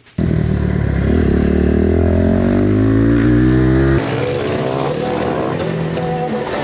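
Supermotard motorcycle engine running hard on track, its pitch slowly rising. About four seconds in the engine sound changes abruptly to a thinner note, as at a cut.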